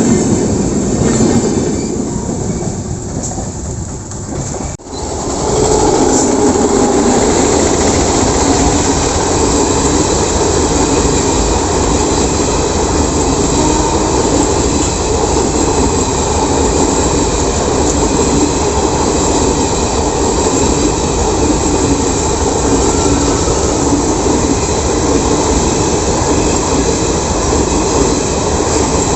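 Passenger train rolling past on the rails, wheels running over the track with a continuous rush. About five seconds in the sound fades, breaks off sharply, then resumes as a steady, loud rush of passing coaches.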